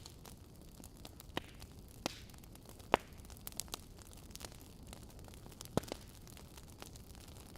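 Wood fire burning in a fireplace: a soft steady hiss with irregular sharp crackles and pops from the logs, the loudest pop about three seconds in and a double pop near six seconds.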